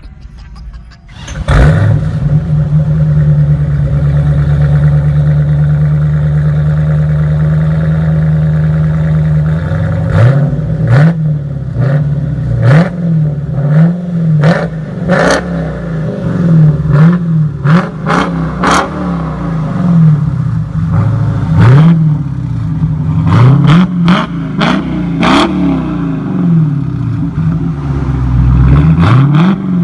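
Dodge Challenger SRT 392's 6.4-litre V8 through a Kinney's Tunnel Ram performance exhaust. It comes in about a second and a half in and idles steadily, then from about ten seconds in it is revved again and again in short throttle blips, each rising and falling in pitch, about a dozen in all.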